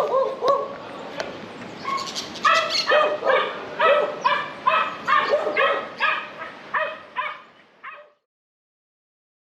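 A dog yipping in a quick series of short, high calls, about two and a half a second, that cuts off abruptly.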